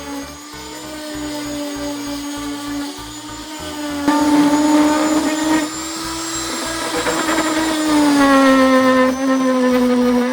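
Hand-held electric power tool running steadily for the whole stretch, its motor whine drifting slowly in pitch as the load changes and growing louder about four seconds in. Background music plays under it.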